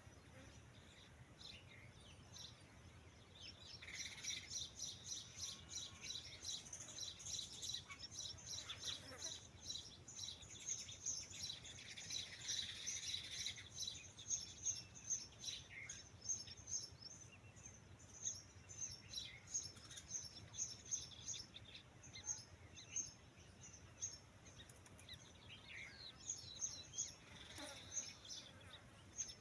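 Birds chirping: a dense run of short, high chirps, busiest through the first half.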